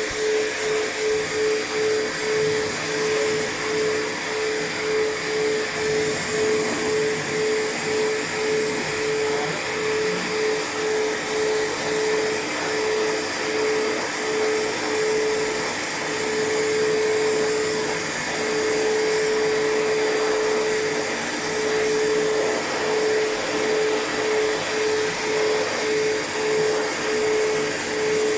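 Pet hair dryer blowing steadily while drying a cat's fur, with a hum that pulses about twice a second and holds steady for a few seconds near the middle.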